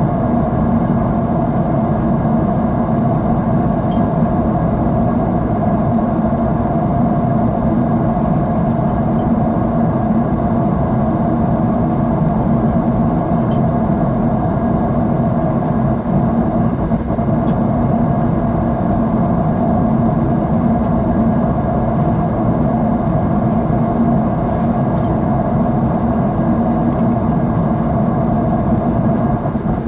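Airliner cabin noise in flight: the steady roar of the jet engines and the airflow, heard from a window seat. It is even and unbroken, strongest in the low and middle range, with a faint steady hum running through it.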